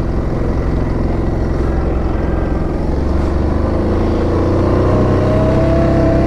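Yamaha Grizzly 700 ATV's single-cylinder engine running steadily while riding off along the trail, getting slightly louder and rising a little in pitch toward the end.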